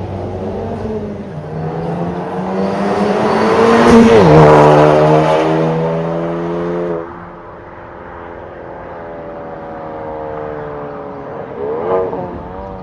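Ford Focus ST Mk3's 2.0-litre turbocharged four-cylinder engine heard through an MS-R valved catback exhaust. It revs up to its loudest about four seconds in, drops sharply in pitch, and holds a steady note. It falls quieter around seven seconds, then gives a short rev rise and fall near the end.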